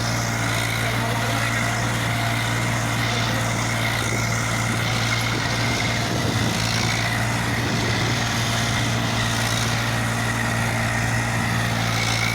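Tractor's diesel engine running steadily at an even speed, without revving.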